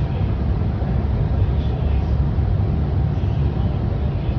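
Steady low rumble of a Lagos Blue Line train in motion, heard from inside the carriage.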